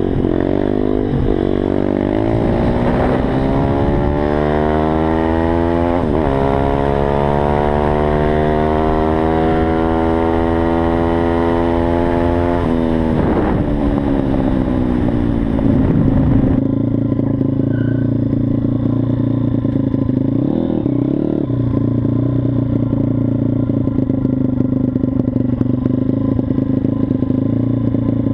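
Mojo KLX 160 SM pit bike's single-cylinder engine accelerating: the pitch climbs, drops at a gear change about six seconds in, climbs again, then falls off as it slows. Around sixteen seconds in the sound cuts abruptly to a steadier, lower engine tone.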